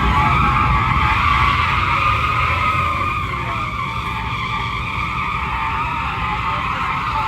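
Truck tyres squealing steadily through a burnout, one long unbroken squeal over a low engine rumble.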